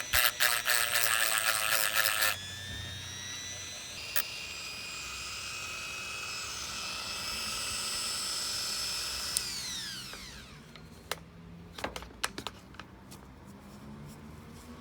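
Electric drill-type power tool: chattering loudly for about two seconds as it bites, then running with a steady high whine that rises a little and winds down about nine seconds in, followed by a few light clicks.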